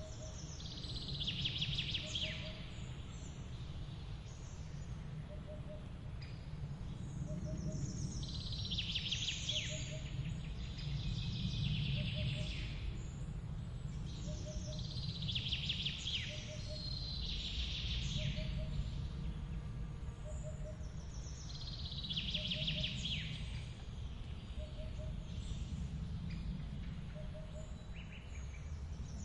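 Steady low rush of a forest waterfall, with a bird singing short trilled phrases that fall in pitch, repeated every two seconds or so. A soft short call repeats evenly about every second and a half.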